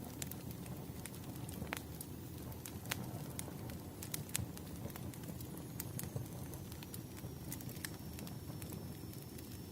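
Fireplace fire crackling: a steady low rumble with irregular sharp pops and snaps.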